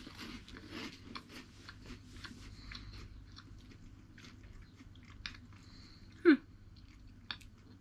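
People crunching and chewing dry, puffed corn snack sticks, a run of small crisp crackles. A short voiced 'mm'-like sound comes about six seconds in.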